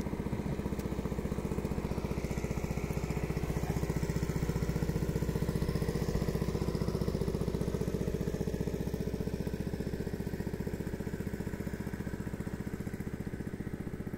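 A small engine running steadily at an even speed, getting a little louder for a few seconds in the middle.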